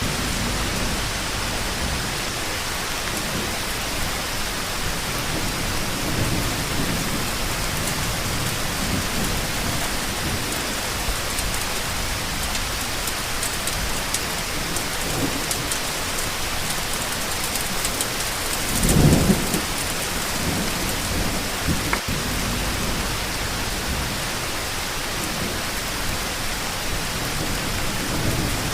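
Steady rain falling, with low rumbles of thunder; one louder rumble comes about two-thirds of the way through.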